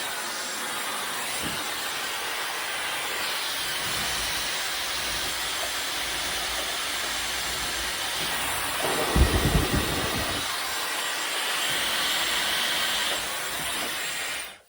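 Dyson Supersonic hair dryer running: a steady rush of air with a thin high whine, with a brief low rumble about nine seconds in. It cuts off abruptly at the end as it is switched off.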